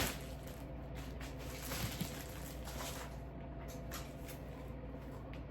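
Kitchen handling noises: a knock at the start, then scattered soft clicks and rustles, over a steady low hum.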